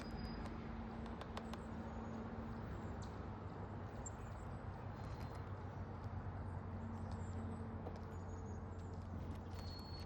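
Outdoor backyard ambience with a steady low hum and drone underneath. Over it come scattered sharp clicks and a few brief, high, thin bird chirps from small feeder birds.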